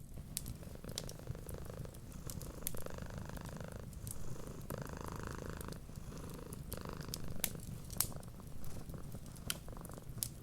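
Domestic cat purring steadily, the purr swelling and easing with each breath about every two seconds, with scattered sharp crackles and pops of a wood fire.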